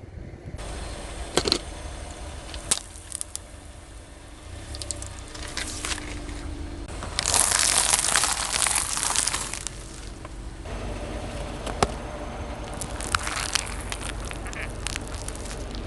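Car tyre rolling over and crushing crunchy objects: scattered sharp cracks and snaps over a low steady rumble, with a long, loud dense crunch in the middle.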